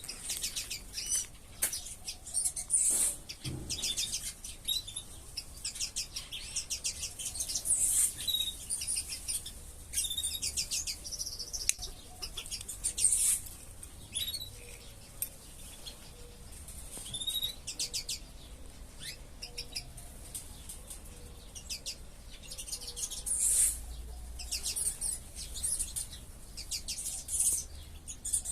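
Small aviary birds chirping and twittering, many short high calls and quick trills overlapping throughout.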